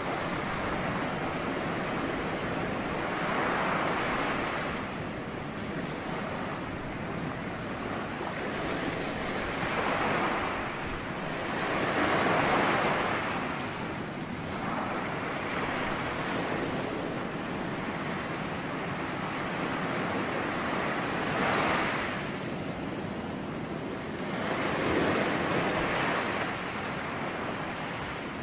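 Ocean waves breaking and washing onto shore, a continuous surf with swells of louder breakers every few seconds.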